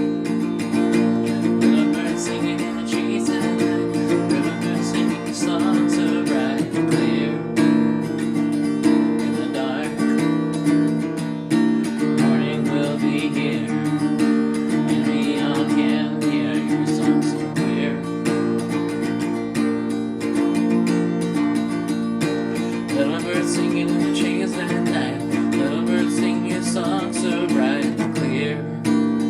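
Acoustic guitar music from a lo-fi folk song, with strummed chords.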